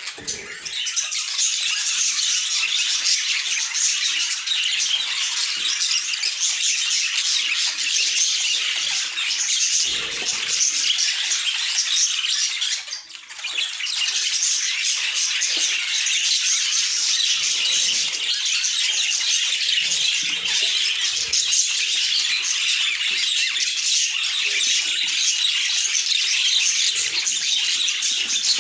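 Budgerigars chirping and chattering nonstop, a dense mass of high-pitched twittering and squawks, with a short lull about thirteen seconds in.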